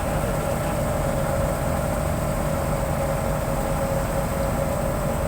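Fishing boat's engine running steadily at a constant speed, a low drone with a steady mid-pitched hum over it.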